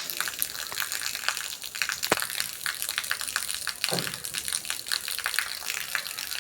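Water running and splashing steadily with many small spattering clicks, one sharp click about two seconds in and a duller knock near four seconds.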